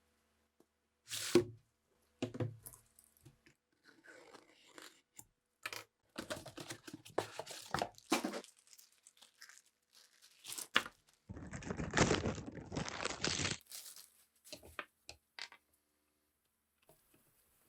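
Hand work on metal restoration parts: two sharp knocks, then bouts of scraping and rubbing, with about two seconds of steady, harsher scraping a little past the middle.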